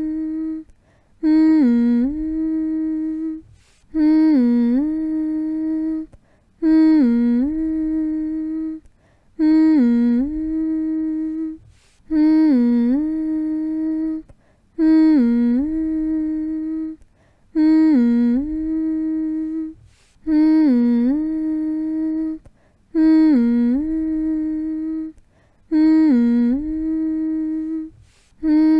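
A person humming one steady note again and again to lull a baby to sleep. Each hum lasts about two seconds and opens with a quick dip and rise in pitch, and a short break follows each one, so a new hum starts every two and a half to three seconds.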